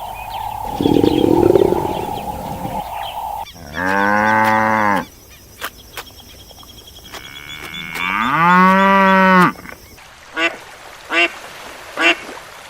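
Farm animal calls: after a noisy opening, two long drawn-out calls of about a second and a half each, like a cow mooing, then a run of short calls repeated roughly once a second, like a duck quacking.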